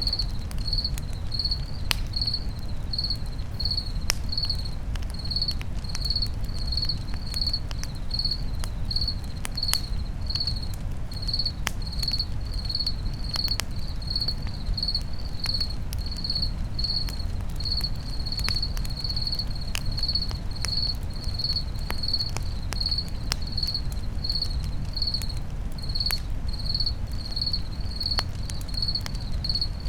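Crickets chirping steadily, a high pulse repeating about twice a second, over a campfire that crackles with scattered sharp pops and a low steady rumble.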